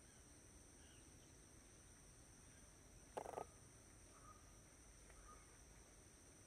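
Quiet outdoor ambience with a steady high-pitched insect drone. About three seconds in, a bird gives a short double call, followed by a couple of faint chirps.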